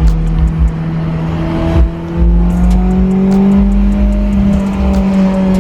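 Supercharged Honda S2000's inline-four engine running through a 3-inch HKS exhaust while driving. Its note holds steady, then climbs gradually through the middle and eases off slightly near the end.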